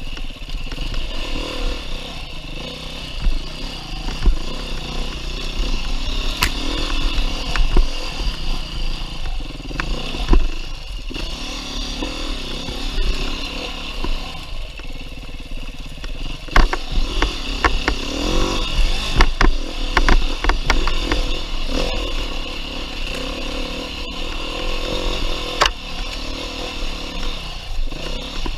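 2019 Beta 390 RR-S single-cylinder four-stroke enduro engine running under constant throttle changes, its pitch rising and falling. A cluster of sharp knocks and rattles comes a little past halfway.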